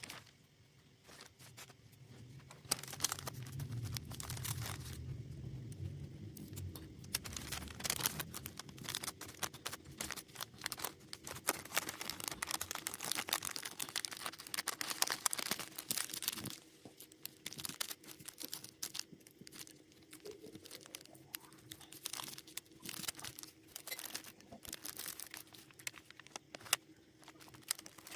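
Dry scratching, rustling and crackling against paper from a gouache painting session, coming in uneven stretches of many small scrapes and clicks. A faint steady hum runs underneath, with a low rumble a few seconds in.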